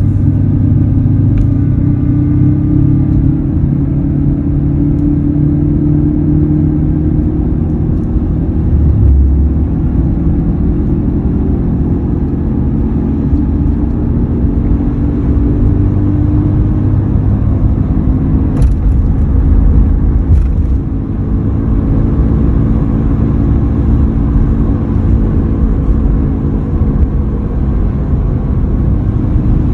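2003 Ford F-150 on the move, with a steady low rumble and a hum whose pitch slowly sinks and rises again. The hum is the unexplained noise under investigation, which could come from any of a number of causes.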